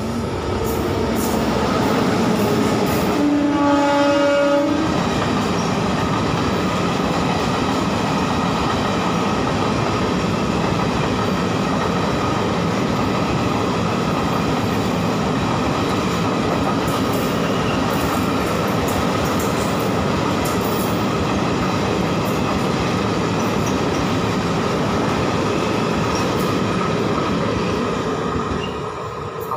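Indian Railways WAP7 electric locomotive sounds one horn blast about three seconds in, under two seconds long, as it passes. Then the steady rumble and clickety-clack of its passenger coaches rolling past, fading away near the end as the last coach recedes.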